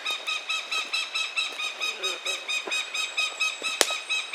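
Hawk calling in a fast, even run of short, high, squealing notes, about five a second. A single sharp knock comes near the end.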